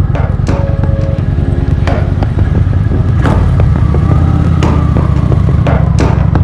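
Motorcycle engine and wind rumbling steadily while riding, with music over it: held notes and a beat roughly every second and a half.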